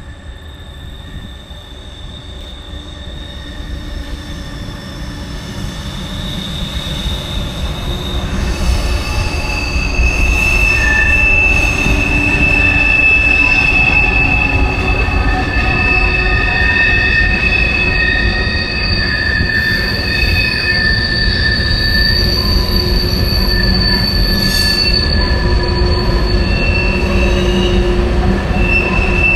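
Freight train approaching and rolling past, growing louder over the first ten seconds, with steel wheels squealing on curved track in several long, steady high tones over a heavy rumble.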